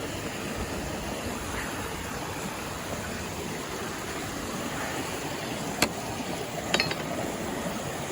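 Steady rushing of running water from floodwater. About six seconds in there is a sharp click, followed a second later by a couple of lighter clicks.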